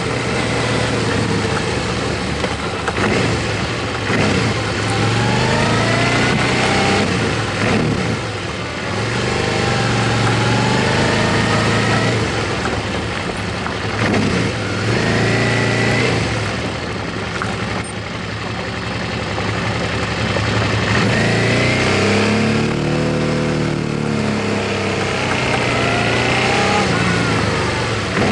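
Motorcycle engine under way, its pitch rising again and again as it accelerates through the gears, under a steady rush of wind noise.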